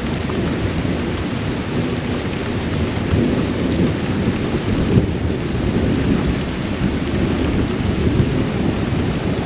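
Rolling thunder rumbling on without a sharp crack, swelling slightly a few times, over steady rain.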